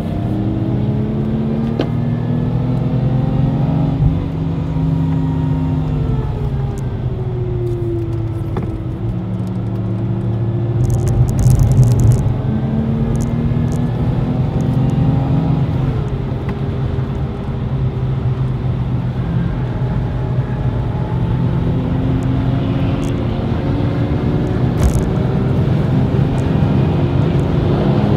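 Supercharged Lexus IS200 TTE Kompressor at full track pace, heard from inside the cabin over tyre and road noise. The engine note climbs again and again under acceleration and drops sharply at each gear change or braking point. It is loudest about halfway through.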